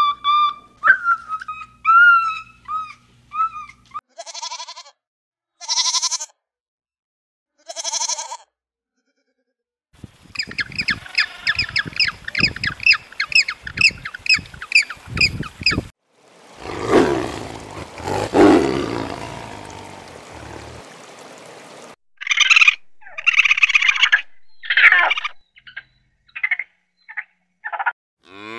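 A string of different animal calls, each lasting a few seconds: squeaky whistling calls at first, three short calls, then gentoo penguins calling in a rapid rhythmic series, a long harsh call, and a run of short choppy calls near the end.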